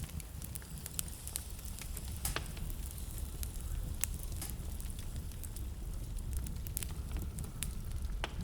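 Wood fire in a fireplace crackling: sharp, irregular pops and snaps over a steady low rumble.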